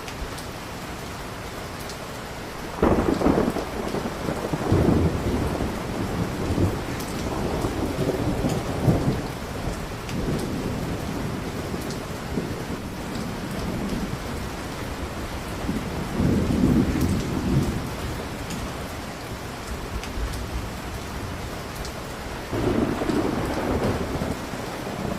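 Steady rain, with thunder rolling in low, long rumbles four times: a sudden one about three seconds in, a longer one a few seconds later, one past the middle and one near the end. Faint crackling of a wood fire in a fireplace is heard as occasional sharp ticks.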